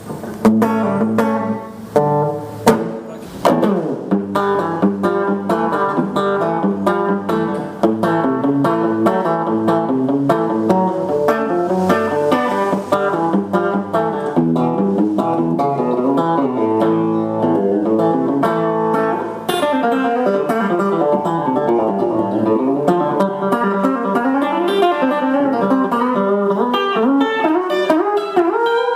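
Fender Telecaster electric guitar played through an amplifier: a fast run of single picked notes and phrases with a twangy attack. In the second half the notes bend and waver in pitch.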